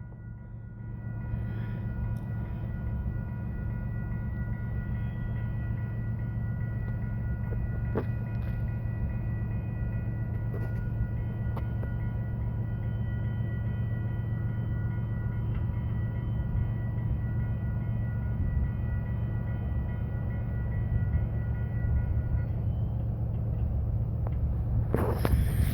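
Long freight train with its diesel locomotive passing, a steady low rumble throughout. Several steady high ringing tones sound over it and stop about 22 seconds in, and the noise gets louder and rougher near the end.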